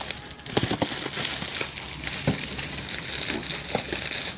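Plastic packaging wrap crinkling and rustling as it is handled and pressed into a box, with a few small sharp clicks and knocks.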